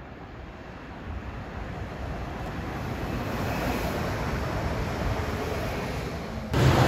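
A train approaching on the line: a rushing noise of wheels and air that swells over the first few seconds and holds. Near the end it jumps abruptly louder, with a low hum, as the train comes alongside.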